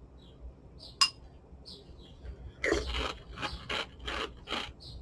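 A spoon clinks once against a bowl of cereal and milk, with a short ring. About two and a half seconds in comes a quick run of scraping, rubbing strokes, roughly three a second, as the spoon works through the cereal.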